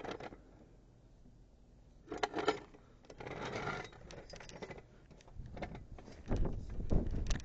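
Clattering and knocking of equipment being handled, a few clicks at first and then denser knocks with low thumps in the last two seconds.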